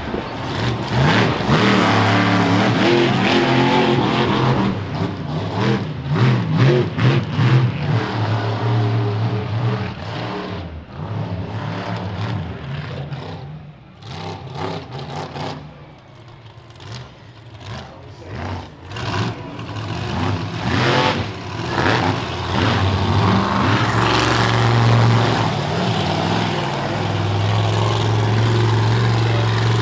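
Monster truck engine revving hard and easing off again and again during a freestyle run, dropping back for a stretch in the middle, then held at high revs near the end.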